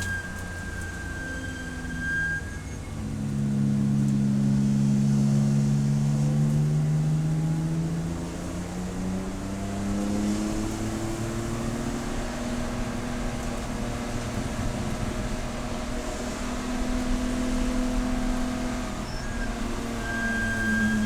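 Race car engine running under load, its pitch climbing slowly and then settling, loudest from about three to eight seconds in. A thin high steady tone sounds briefly near the start and again near the end.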